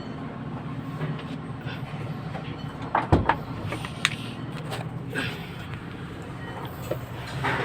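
A few sharp metallic knocks and clanks, the loudest about three seconds in, from hand tools working on a truck's gearbox linkage, over a steady low machine hum.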